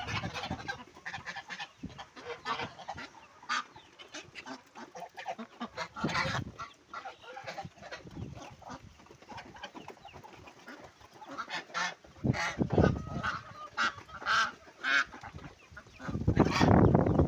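Domestic poultry feeding, with many short clucks and calls and a few longer pitched calls in the second half. A louder, noisy stretch comes near the end.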